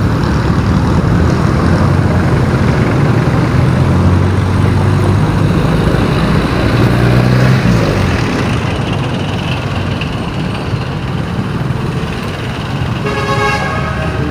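Road traffic while driving: vehicle engines and road noise with a steady low drone, stronger in the first half. A vehicle horn honks once, briefly, near the end.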